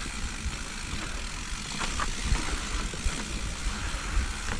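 Mountain bike rolling over a rough, rocky trail: a steady low rumble of tyres and wind on the microphone, with a few sharp knocks and rattles from the bike.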